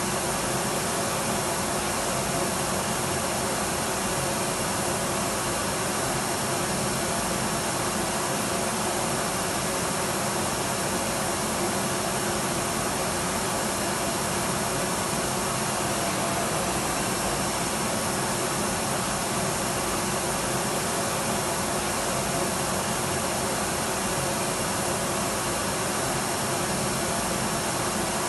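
Electric vacuum cleaner running continuously: a steady, even whoosh of motor and airflow with a faint high whine, unchanging throughout.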